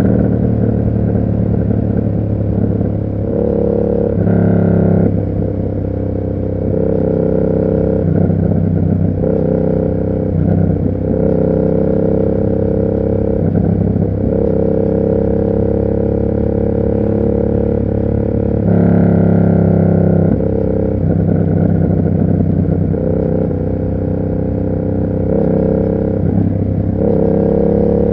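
Yamaha MT-07's 689 cc parallel-twin engine running through an SC Project aftermarket exhaust while riding. The engine note holds steady for a few seconds at a time, then shifts up or down as the revs change.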